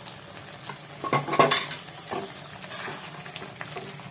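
Metal cooking utensils clinking and scraping against steel pots, with a cluster of sharper knocks about a second in.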